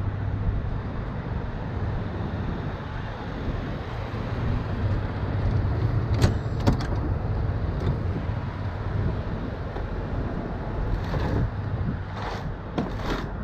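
Heavy diesel engine idling steadily with a low hum, with a few sharp knocks of tools or hardware against metal about halfway through and several more near the end.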